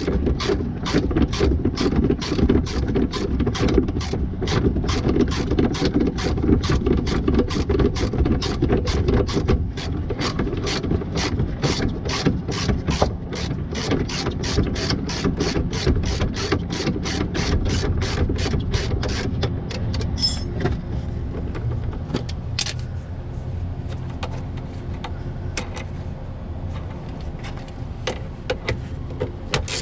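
Ratchet wrench clicking steadily, about three clicks a second, as a loosened shock absorber mounting bolt is backed out. The clicks thin out and grow sparser in the last ten seconds, over a steady low rumble.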